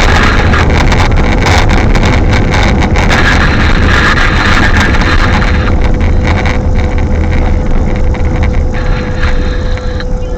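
Strong wind buffeting the microphone: a loud, continuous low rumble and rush, with a faint steady hum underneath.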